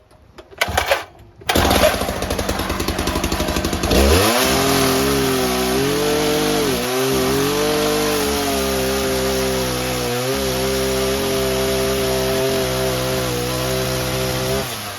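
Two-stroke petrol cut-off saw (a Stihl disc cutter) running at high revs and cutting; its engine note dips briefly several times under load, and it cuts off near the end.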